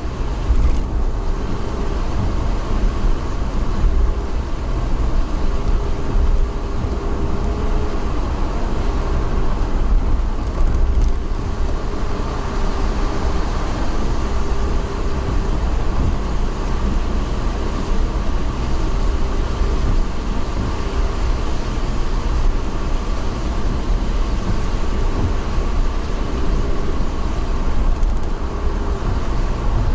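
Steady running noise of a moving vehicle: a continuous low drone with a faint tone that comes and goes.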